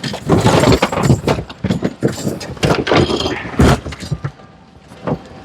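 Assorted hard goods clattering, knocking and rattling against each other as items are dug through in a thrift-store bin, in an irregular run of knocks and scrapes. It eases off for about a second near the end.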